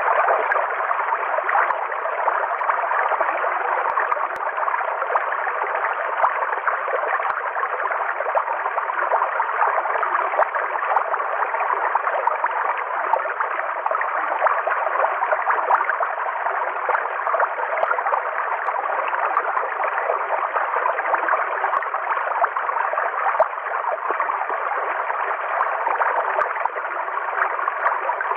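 River water flowing: a steady, even rushing of moving water, mid-pitched with no deep rumble and no high hiss.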